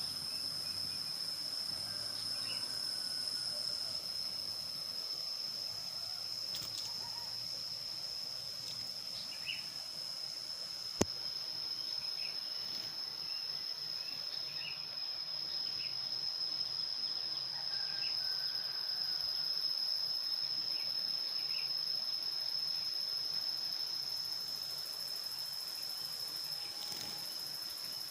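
Steady, high-pitched insect buzz with faint, short chirps scattered over it, and a single sharp click about eleven seconds in.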